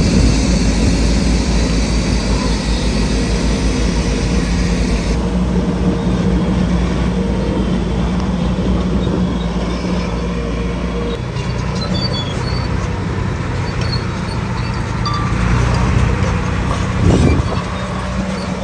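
Heavy construction machinery's diesel engine running steadily, its note shifting about halfway through, with a brief louder burst near the end.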